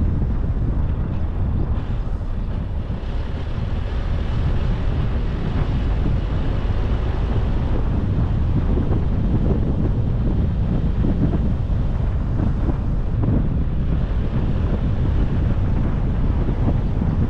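Steady low rumble of a moving car, its road and engine noise mixed with wind buffeting the microphone.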